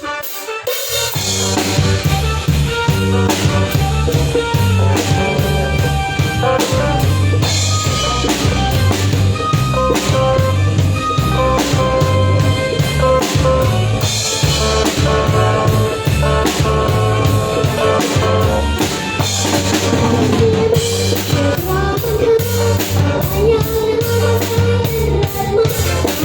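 Live band playing an instrumental with drum kit, bass and pitched instruments, a steady beat that kicks in about a second in.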